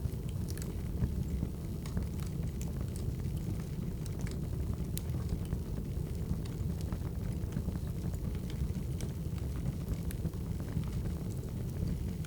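Wood fire crackling: a steady low rumble of burning logs with scattered sharp pops and snaps.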